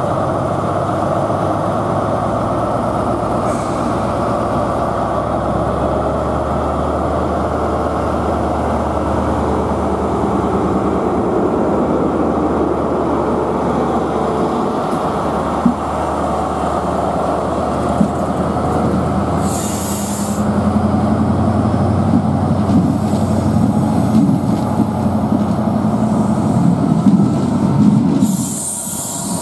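A train running at a railway station: a steady rumble with wheel noise. A short, high-pitched burst comes about twenty seconds in and again near the end.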